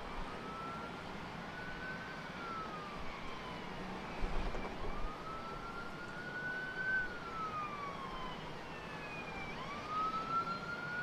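Emergency vehicle siren in a slow wail, rising and falling in pitch three times, each cycle about five seconds long.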